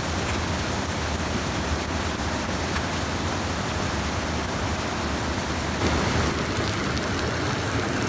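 Steady rushing of stream water pouring over a small sabo dam weir, with a few faint crackles near the end.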